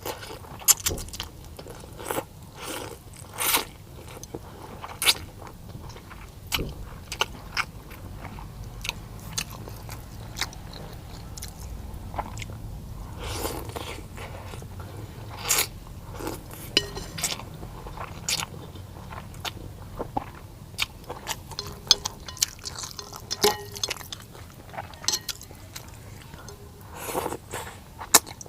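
A person eating close to the microphone: irregular crunching, chewing and mouth clicks, a few every second.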